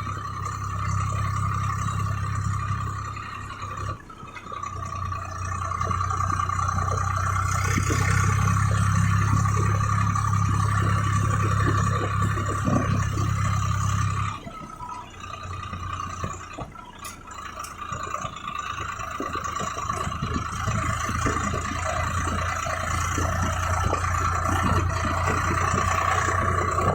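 Swaraj 855 FE tractor's three-cylinder diesel engine running steadily on the move, with a steady high whine over it. The engine note drops off briefly about four seconds in and more clearly about fourteen seconds in, then builds back up.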